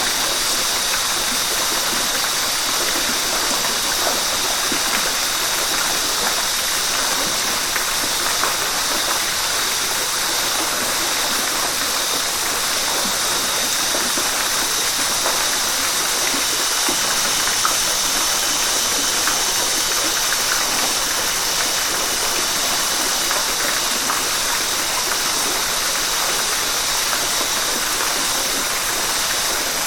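A river flowing, a steady, unbroken rush of water.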